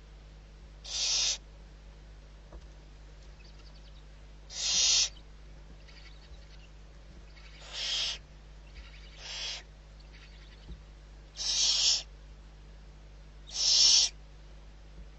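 Barn owl giving harsh, hissing screech calls, each about half a second long, one every two to three seconds, six in all.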